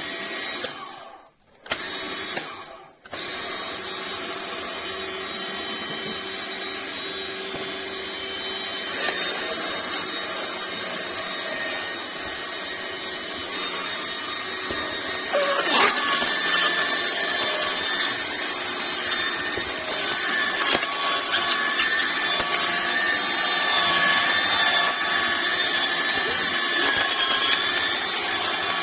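Electric cold-press juicer's motor running steadily with a humming whine. It cuts out briefly twice in the first few seconds, then runs on, a little louder in the second half.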